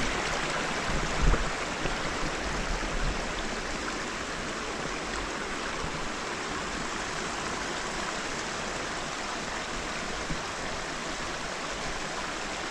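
Steady rush of river water running over a rocky bottom, with a brief low thump about a second in.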